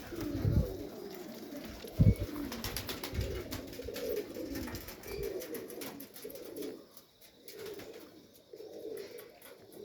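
Several pigeons cooing in repeated low, warbling calls, with scattered sharp clicks and one loud thump about two seconds in.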